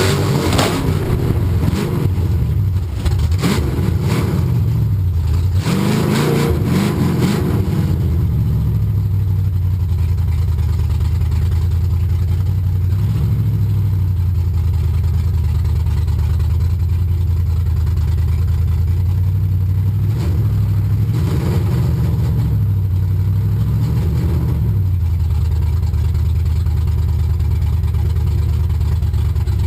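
Tough-truck engine revving hard and varying in pitch for the first several seconds, then settling to a steadier, lower run, with a few short revs later on.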